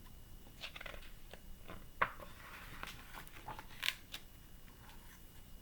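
Soft paper rustling and a few small clicks from a book's page being turned and handled, the sharpest click about two seconds in.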